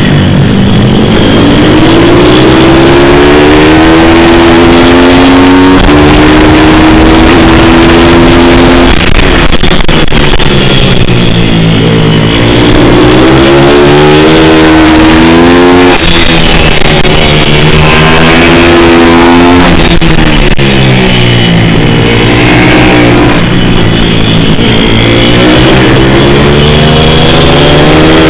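Pit bike's single-cylinder four-stroke engine under hard riding, very loud. Its pitch climbs, holds and drops again and again every few seconds as the bike accelerates, changes gear and slows for corners.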